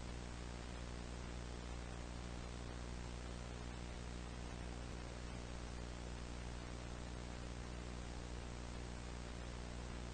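Steady hiss with a low, unchanging hum made of several evenly spaced tones.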